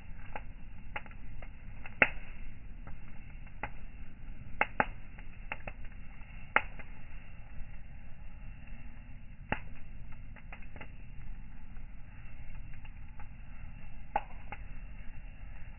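Campfire crackling: irregular sharp pops and snaps from the burning wood, a few louder than the rest, over a steady low rumble.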